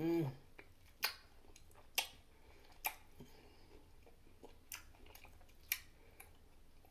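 Mouth chewing a bread and butter pickle spear: short, sharp, wet crunches and smacks about once a second, with longer gaps in between later on.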